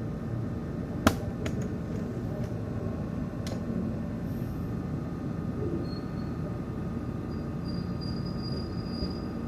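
CPU cooler fan running with a steady, low, noisy hum, the loud fan noise and vibration of a faulty fan. A sharp click sounds about a second in, and a fainter one a few seconds later.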